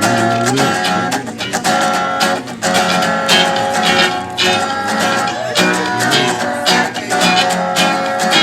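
Acoustic guitar strumming chords in an instrumental break between sung verses of a live song.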